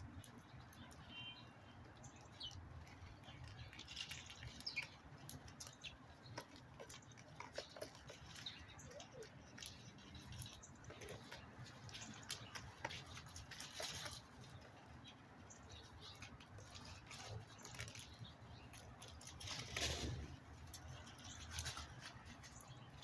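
Faint backyard bird sounds: scattered light taps and rustles with a few brief chirps from small birds, over a low steady rumble. One louder, brief sound stands out near the end.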